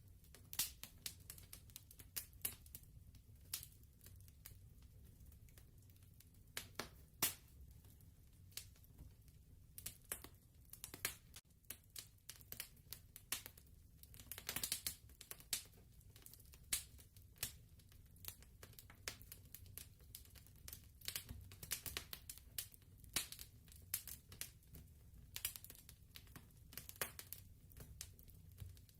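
Wood fire crackling softly: irregular snaps and pops, several a second at times, over a low steady rumble.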